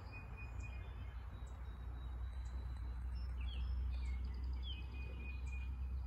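Small birds chirping and whistling, with several short high notes, some held briefly and some sliding down, over a steady low rumble.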